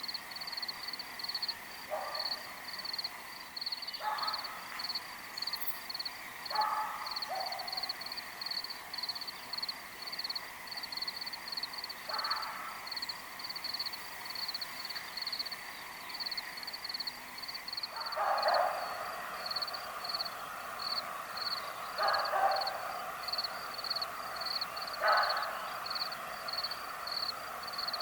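Rural dawn ambience: a high chirp pulses fast and steadily throughout, while short animal calls sound every few seconds and grow louder from about halfway in.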